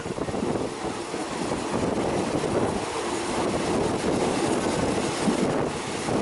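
Steady rumble and rush of a moving passenger train heard from an open carriage window, with wind on the microphone.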